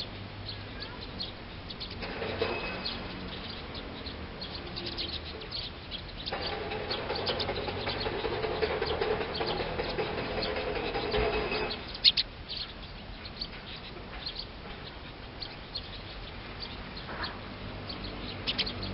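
Small wild birds chirping, many short high chirps throughout. A low drone rises under them about two seconds in, swells louder from about six seconds in and drops away at about twelve seconds, where a single sharp click sounds.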